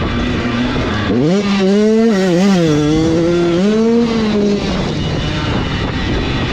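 Dirt bike engine revving at close range: its pitch climbs about a second in, wavers up and down, then falls away after about four seconds, over a steady noisy rush.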